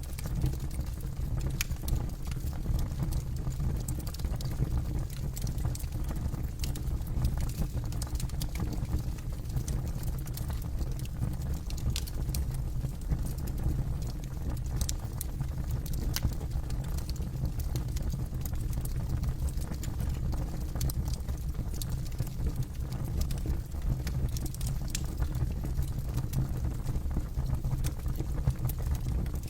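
Campfire burning, with frequent, irregular sharp crackles and pops of burning wood over a steady low rumble.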